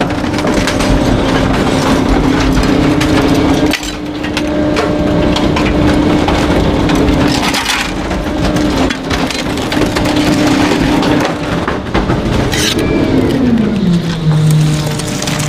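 Garbage truck's packer crushing bulky waste: cracking, splintering and crunching over the steady hum of the truck's engine and hydraulics working at raised revs. The hum drops in pitch near the end as the revs come down.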